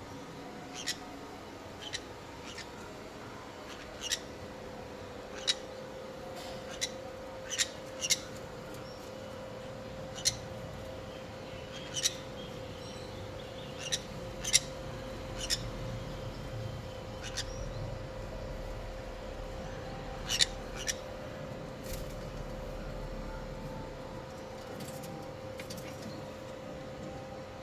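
Small birds giving short, sharp chirps at irregular intervals, about one every second or two, over a steady hum.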